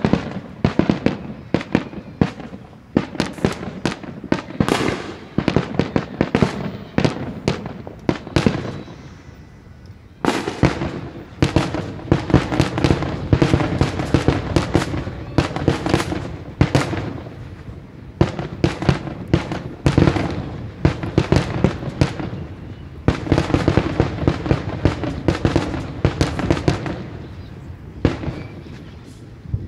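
Fireworks grand finale: a dense, rapid barrage of aerial shell bursts, one report after another, with a short lull about a third of the way in. The bursts then come thickly again and thin out near the end.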